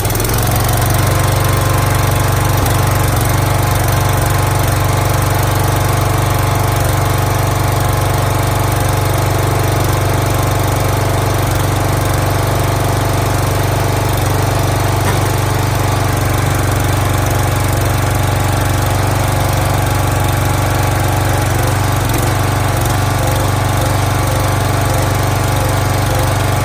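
Small pull-start gasoline engine of a log splitter, just started on choke, coming up to speed and then running steadily.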